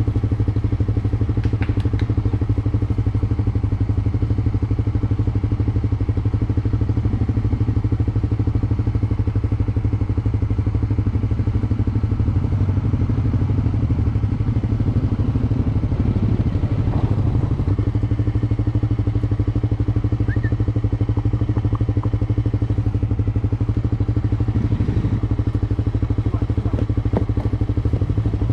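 Suzuki GSX-S125's single-cylinder engine running steadily, its pitch hardly changing throughout.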